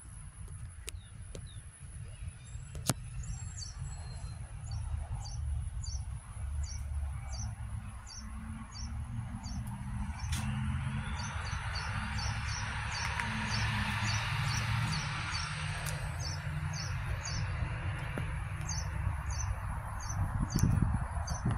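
A bird repeating a short, high chirp about twice a second, over a low rumble on the microphone. A soft hiss swells up for several seconds midway.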